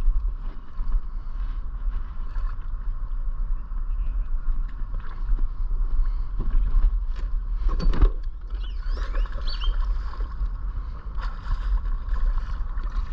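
Wind rumbling on the microphone over water noise from a small boat on the lake, with a sharp knock about eight seconds in.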